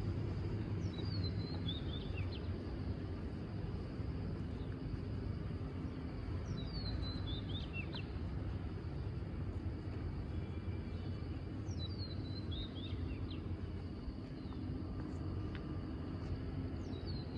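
A bird calls four times, about every five or six seconds, each call a quick series of high chirps falling in pitch, over a steady low outdoor rumble.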